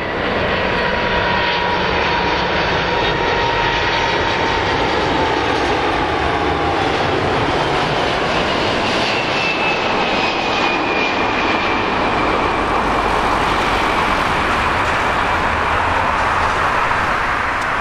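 Four-engine jet noise from a Boeing 747-400 freighter, a loud steady roar with thin whine tones that slowly drop in pitch as the aircraft passes.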